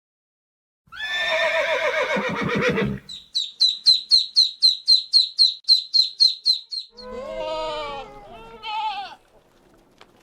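A run of farm animal calls. First a drawn-out wavering call. Then a fast, even series of about twenty high chirps, around five a second. It ends with another wavering call that falls in pitch.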